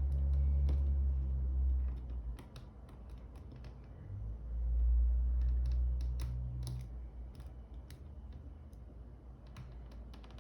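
Scattered small, sharp clicks and taps of handling a G-Shock watch and its band, with a low hum in the first two seconds and again from about four to seven seconds in.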